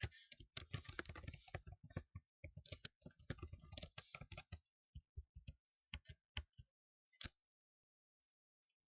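Typing on a computer keyboard: a fast run of key clicks for about four and a half seconds, then a few scattered keystrokes before it stops.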